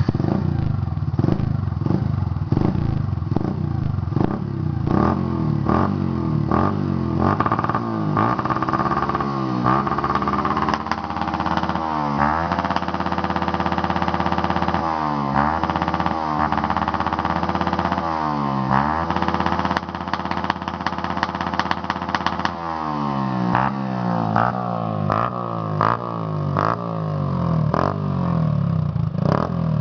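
Small-displacement motorcycle engine held at high revs against the rev limiter. The revs drop sharply and climb straight back several times, and near the end the engine runs lower and more unevenly.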